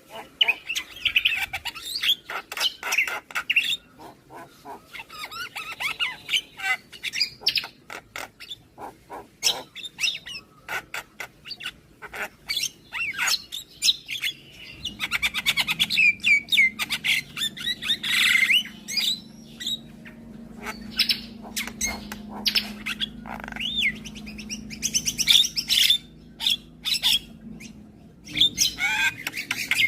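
Javan myna (jalak kebo) singing: a rapid, varied run of chirps, whistled glides, harsh squawks and quick clicking notes. A low steady hum runs under it from about halfway until near the end.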